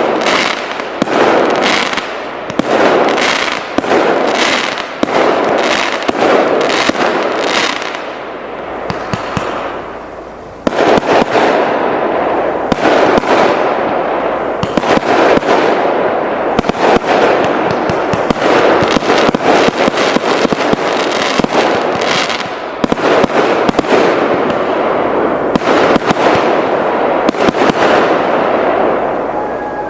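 Firework cake (TKB997 'Деньги на ветер' battery) firing: a rapid run of shots and bursts over dense crackling. It eases off about eight to ten seconds in, then comes back suddenly and denser, tapering near the end.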